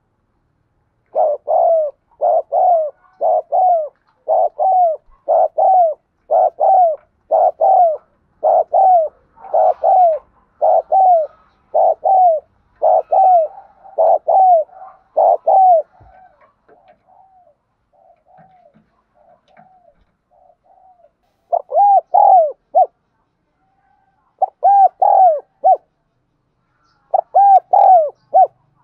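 Spotted dove cooing: a long, rapid run of repeated coos about two a second, then softer notes, then three short phrases of three or four coos near the end. It is the provoking call used to lure and excite wild doves and to train the voice of captive ones.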